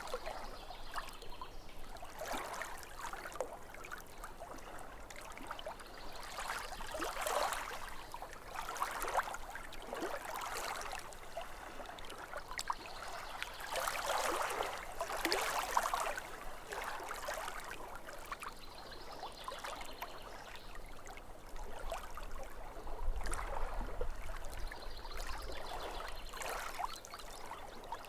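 Small waves lapping at a lake's edge: a steady wash of splashing and trickling water that swells into louder surges every few seconds.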